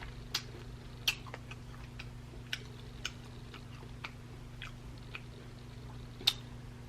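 A person chewing food, with soft scattered wet mouth clicks, a few louder than the rest. A steady low electrical hum runs underneath.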